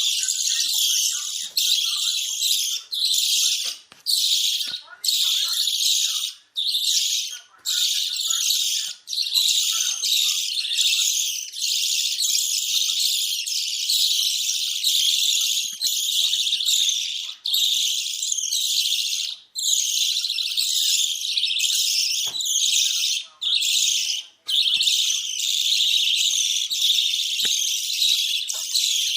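Budgerigars chattering and warbling in a fast run of high chirps and squeaks, broken by short pauses every second or two. This kind of budgie chatter is played to encourage a female budgie to breed.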